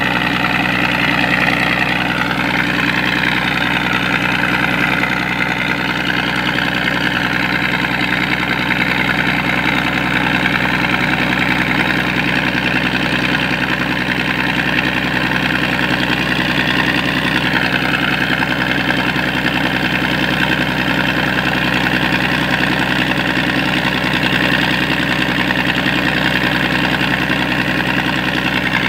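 Scania 113 six-cylinder diesel engine on a sand dredge, running at a steady speed.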